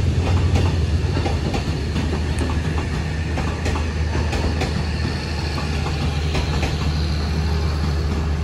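Passenger train coaches rolling slowly past, steel wheels clacking over rail joints at irregular intervals over a steady low rumble.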